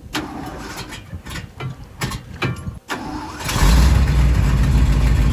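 Dump truck engine cranking and catching: a few seconds of uneven cranking with sharp pops and a backfire, then it fires about three and a half seconds in and runs loud and steady.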